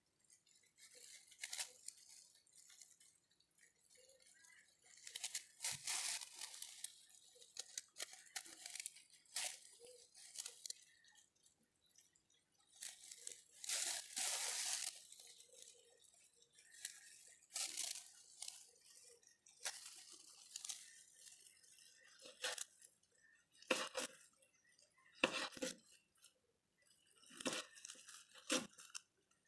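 Kitchen knife slicing and dicing a tomato on a plastic cutting board: irregular cuts through the tomato and sharp taps of the blade on the board, the taps standing out more distinctly near the end.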